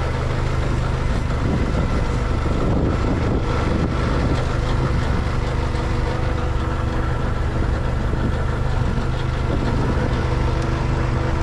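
Semi truck's diesel engine idling steadily at a low, even pitch.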